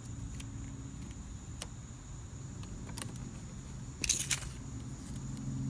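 Small handling sounds as stickers are peeled and pressed onto a plastic toy fridge: a few light clicks and a short rustle about four seconds in, over a steady low hum.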